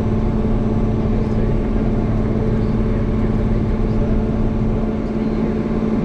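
Diesel engine of a farm machine running steadily at a constant speed, a continuous drone without change.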